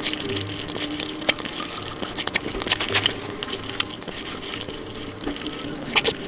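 Close-miked eating sounds played at five times normal speed: a rapid, dense stream of wet chewing, smacking and clicking mouth sounds.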